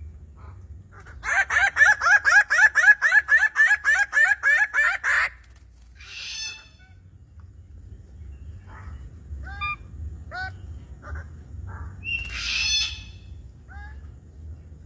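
Bird-of-paradise calling: a loud, rapid run of about four harsh, honking calls a second for some four seconds, then scattered single calls.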